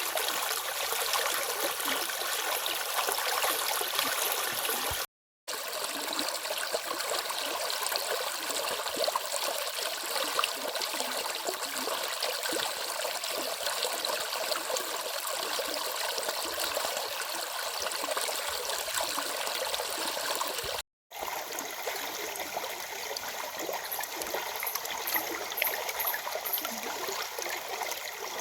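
A stream's water rushing and babbling steadily. It cuts out to silence twice, briefly, about five seconds in and again around twenty-one seconds.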